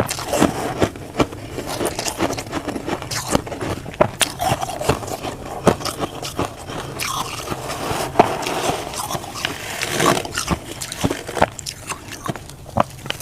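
Crunchy humidifier frost being bitten and chewed close to the microphone: a dense run of irregular crisp crunches and scrapes.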